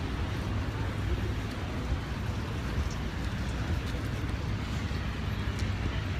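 Steady outdoor background noise: a low rumble with an even hiss over it and a few faint ticks, with no clear single source.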